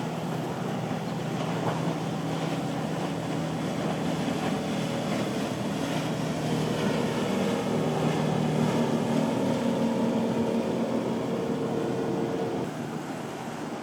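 Motorboat engines running as a boat passes, growing louder towards the middle, with a steady engine note that cuts off shortly before the end. Wind and surf hiss underneath.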